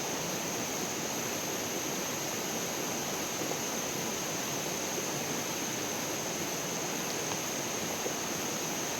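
Steady rush of flowing water, even and unbroken, with a constant high-pitched tone held above it.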